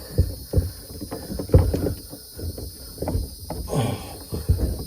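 Irregular knocks, bumps and rubbing from a fuel hose being forced into place inside a bass boat's hull.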